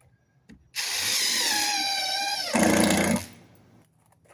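Power drill driving a screw into plywood: a motor whine for about two seconds that drops in pitch as the screw bites, then a louder, lower half second before it stops.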